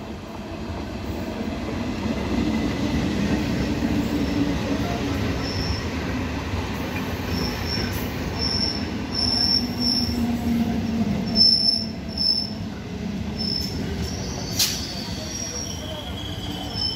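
Electric multiple-unit local train running past along the platform: the wheel and rail rumble builds over the first couple of seconds and stays loud. Short high squeals from the wheels come again and again through the middle, and there is one sharp clack near the end.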